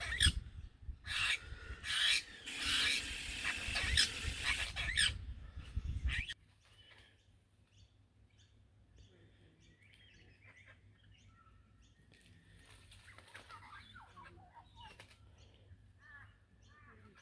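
A loud rough noise for about six seconds that cuts off suddenly, then faint, scattered bird chirps, thickest a few seconds before the end.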